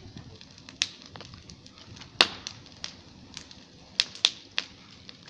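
Campfire crackling: irregular sharp pops and snaps of burning wood over a low hiss, the loudest about two seconds in and a quick pair around four seconds.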